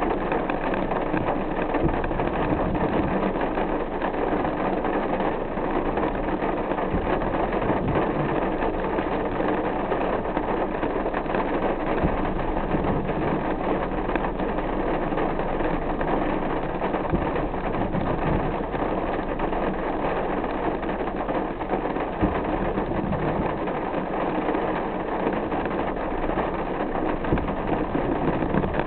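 Car driving in the rain: a steady, even rush of rain and wet-road noise with the engine running underneath.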